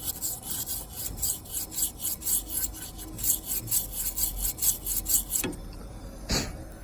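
Quick back-and-forth rubbing or scrubbing strokes, about four a second, stopping about five seconds in, followed by two single strokes. This is the grime being rubbed off an air conditioner compressor's label to make it readable.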